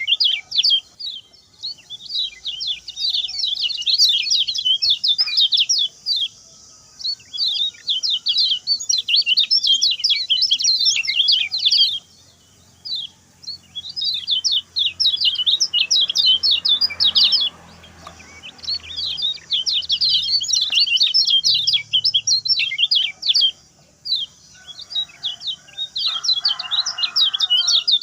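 Common iora (kecial kuning) singing a fast, short-phrased song: rapid high notes in runs of several seconds, broken by brief pauses.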